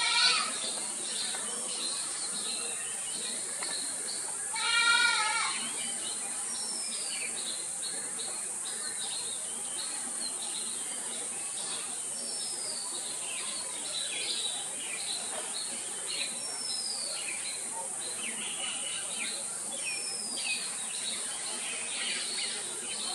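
Small birds chirping, with a downward-sliding whistle every few seconds, over a steady high hiss. About five seconds in, a goat bleats once, the loudest sound.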